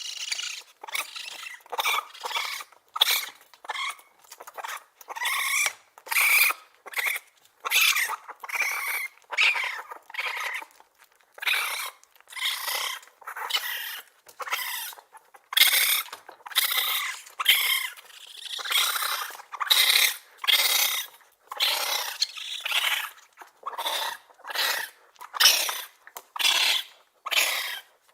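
Raccoon chittering: a long run of short, harsh calls, one after another with brief gaps between.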